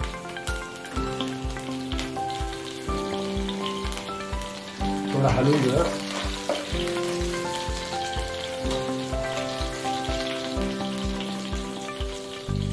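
Chopped garlic, ginger and green chillies sizzling in hot oil in a non-stick pan while being stirred with a steel ladle. Background music with a steady beat plays throughout.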